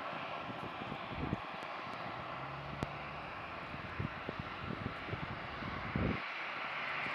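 Steady rushing jet-engine noise from an Airbus A320-family airliner, getting a little stronger near the end. Scattered low thumps of wind on the microphone sound through it.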